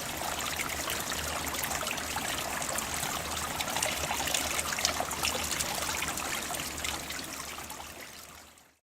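Water trickling steadily with a fine, busy splashing, like a small stream. It fades out over the last two seconds and cuts off just before the end.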